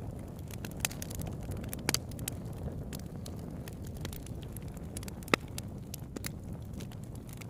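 Wood campfire burning: a steady low rumble of flames with scattered sharp crackles and pops, the loudest pop about five seconds in.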